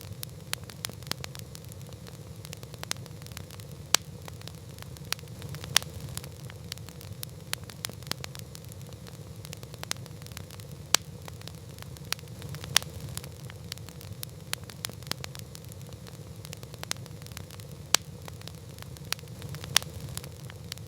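Wood campfire burning: a steady low rumble and hiss of the flames with frequent sharp crackles and pops, a few of them much louder.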